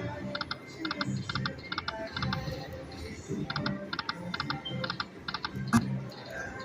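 Lightning Link slot machine's electronic ticking as its reels spin, coming in quick clusters of short clicks several times a second.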